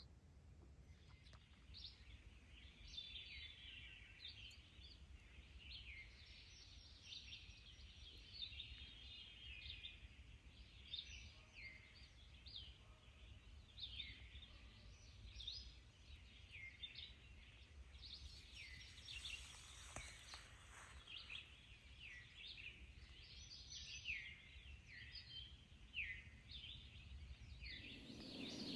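Faint pre-dawn bird chorus: many short chirps and down-slurred calls from several birds, overlapping and continuing throughout.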